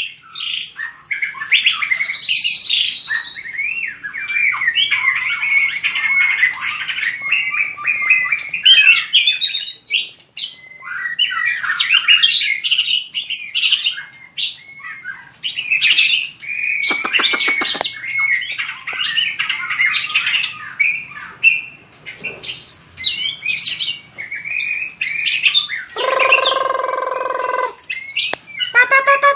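White-rumped shama singing a long, varied song of whistled phrases that glide up and down. It is broken by a rapid rattle of clicks about midway and by a harsh, buzzy call about 26 s in, with another right at the end.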